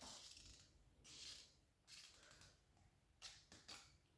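Near silence, with a few faint short rustles and clicks from a small toy capsule being handled and opened.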